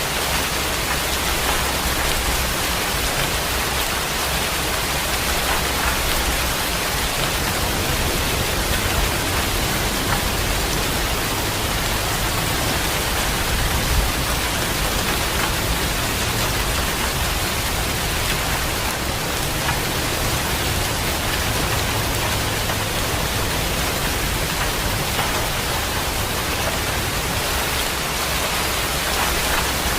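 Heavy rain falling steadily, an even hiss, with a low rumble underneath that swells and fades at times.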